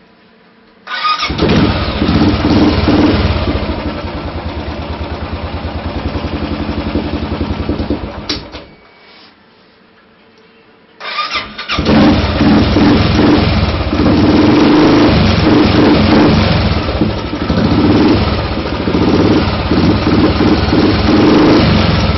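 Royal Enfield 500's single-cylinder four-stroke engine through a loud MG-Race aftermarket exhaust, cold-started: it fires about a second in, runs with an even thump, and cuts out after about seven seconds. It is started again a couple of seconds later and keeps running, its level rising and falling.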